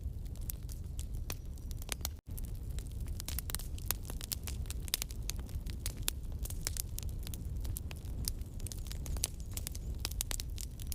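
Campfire burning, with a steady low rumble and many sharp crackles and pops. The sound cuts out for an instant about two seconds in.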